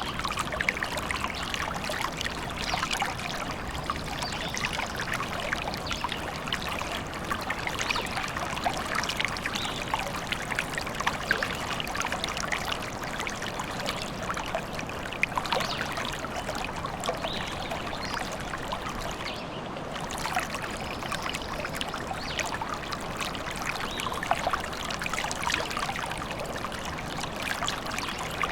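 A small stream babbling and trickling steadily, full of small quick splashes.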